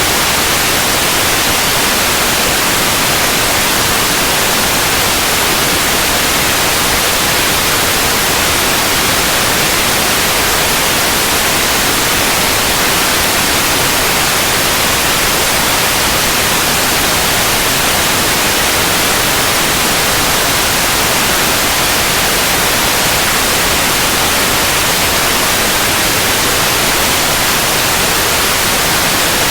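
Continuous white noise: a steady, even hiss across the whole range of pitch, unchanging throughout.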